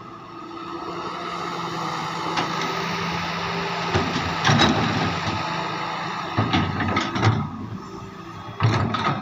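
Heavy excavator at work: its diesel engine runs steadily, building up over the first few seconds, then irregular knocks and clanks come in about four seconds in and again near the end.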